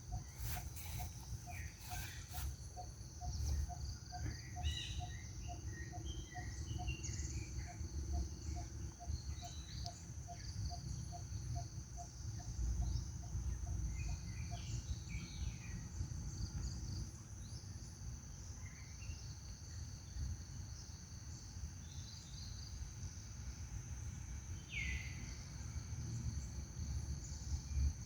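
Outdoor forest ambience: a steady high insect drone, a faint regular ticking call about three times a second through the first half, and scattered short chirps, two of them falling in pitch near the end, over a constant low rumble.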